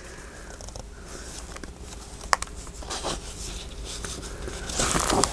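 Paper ephemera being handled and shuffled on a table: faint rustling and light taps, with a sharp click about two seconds in and a louder rustle of paper near the end.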